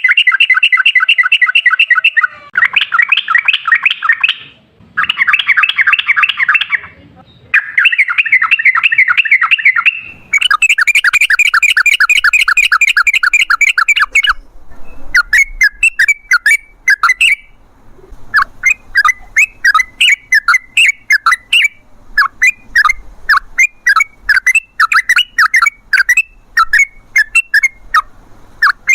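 Yellow-vented bulbul (trucukan) singing its rolling song: several long, very rapid trills in the first half, then quick runs of short, sharp chirps.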